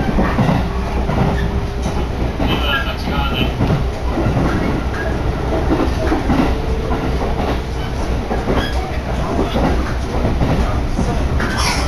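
Electric commuter train running at speed, heard from inside the car: a steady rumble of wheels on rail with repeated knocks and clatter. A thin steady hum runs under it and fades out about nine seconds in.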